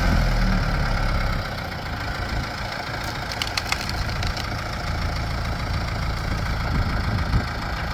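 Backhoe engine idling steadily, dropping a little in level after about a second and a half, with a few short clicks around three to four seconds in.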